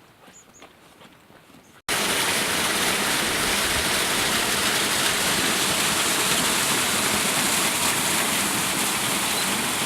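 Steady, loud rush of running water, as from a spring or stream close by, starting abruptly about two seconds in after a short stretch of faint ticks.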